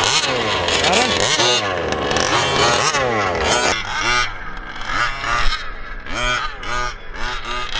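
Small two-stroke gas engine of a 1/5 scale RC truck revving hard, its pitch swinging up and down as it pulls a weight sled. About three and a half seconds in it drops off to a series of short throttle blips.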